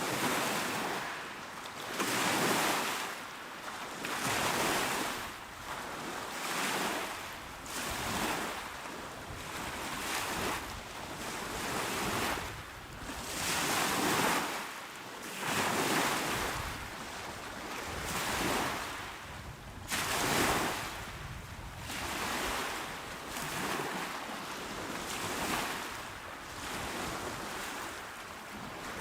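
Small, calm waves washing onto a shore, one surge of surf about every two seconds, each swelling and fading in a steady rhythm.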